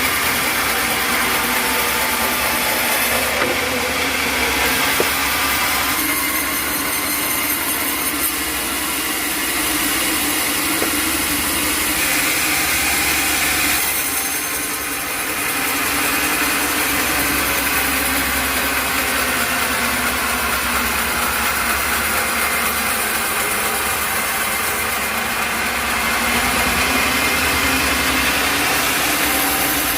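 Sawmill blade cutting through an acacia log, with the mill's engine running steadily under load; the noise eases briefly about halfway through.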